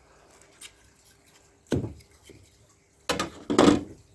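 A few clattering knocks as a sand-casting flask is opened and handled: one about midway, then two close together near the end.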